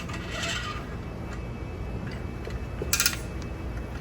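Metal clinks and scrapes from working a manual motorcycle tire changer and its tools while levering the tire bead over the rim lip, with one sharp metallic clank about three seconds in.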